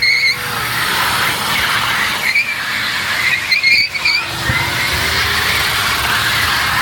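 Car tyres squealing against the pavement over a running engine, the squeal wavering and coming back strongest about two and a half to four seconds in.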